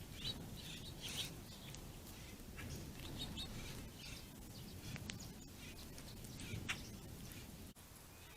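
Small songbirds feeding on the ground, giving scattered short chirps and calls over a steady low rumble.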